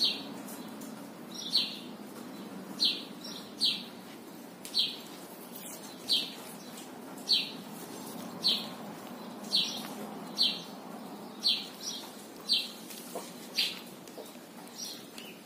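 A bird repeating a single short, high chirp about once a second, over a steady low background noise.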